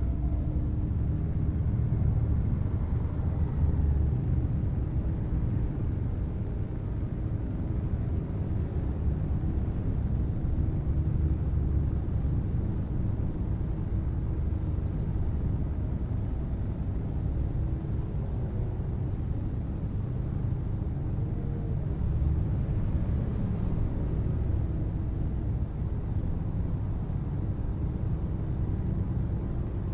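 Scania R730's 16-litre V8 diesel engine running steadily as the truck drives along, a deep, even rumble with small swells in level.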